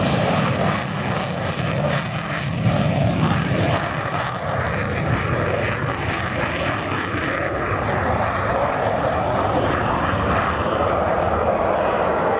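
Saab J 29 Tunnan's single turbojet running loudly as the jet fighter performs, a steady jet noise whose hiss fades in the highest register after about seven seconds.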